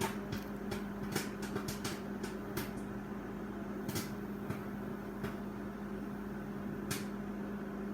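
Microwave oven running with a steady hum while a bag of microwave popcorn pops inside. The pops come thick at first, then thin out to single pops a second or more apart as the popping slows down.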